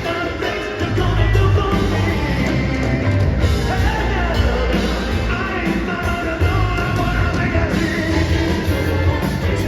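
Live rock band playing with a lead singer, heard from the audience.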